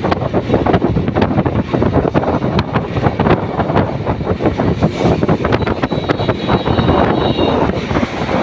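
Wind buffeting the microphone of a motorcycle riding at speed, over the rumble of the engine and road. A faint, steady high whine comes in for a second or so past the middle.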